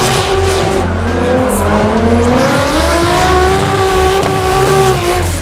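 Toyota Supra MK4 engine accelerating hard. Its pitch climbs, drops at a gear change about two seconds in, then climbs again and holds high before falling away near the end.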